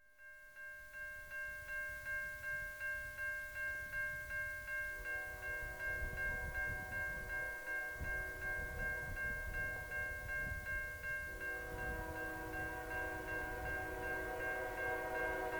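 Railroad grade-crossing bell ringing, about three dings a second, as the crossing is activated for an approaching CN train. About five seconds in, a distant train horn begins sounding a long blast over it, with a rising low rumble of the train; the horn breaks briefly near the eleven-second mark and starts again.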